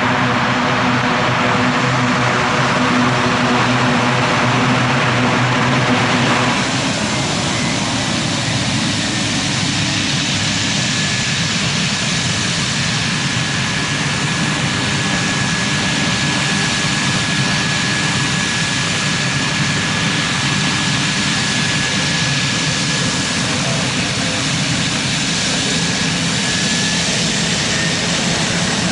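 Aircraft engine running loud and steady. About six and a half seconds in, its low humming tones drop away and a broader rushing sound remains, with a thin high whine through the middle.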